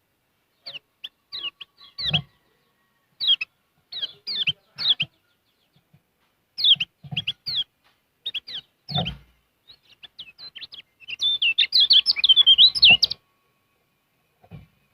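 Kecial kuning, a yellow white-eye, giving quick high chirps in short clusters, then breaking into a fast, dense chattering song for about two seconds near the end. A few low thuds come along with some of the chirps.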